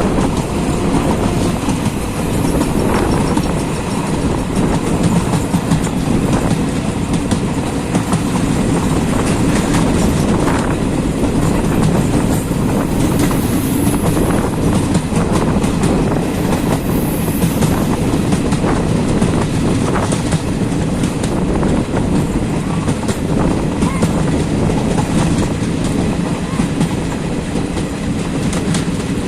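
Jan Shatabdi Express passenger train moving along the track: a steady rumble with the wheels clacking irregularly over the rails.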